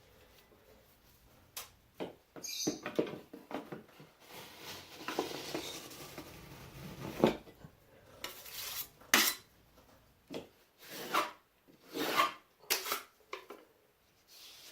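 Metal drywall knife scraping and smoothing joint compound over paper tape: a longer, even scrape about four to seven seconds in, then a run of short, sharp strokes.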